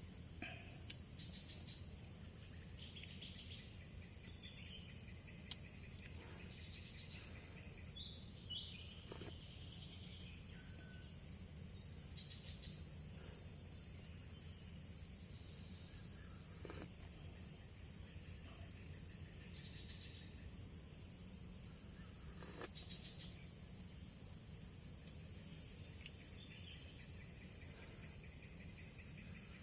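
Steady insect chorus of the forest, a continuous high-pitched drone, with scattered faint chirps and clicks over it.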